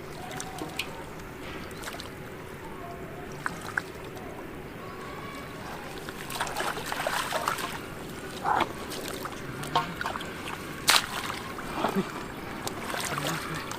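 Water splashing and sloshing in shallow floodwater as someone wades and grabs at fish by hand, with a run of short splashes in the second half, the sharpest about three-quarters of the way in, over a steady low hum.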